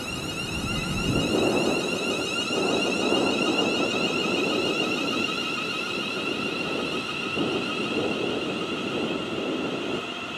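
A train moving at the station: a rumble with a steady high-pitched whine over it.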